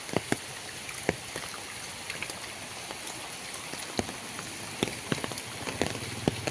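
Rain falling steadily, with irregular sharp taps of single drops hitting nearby surfaces.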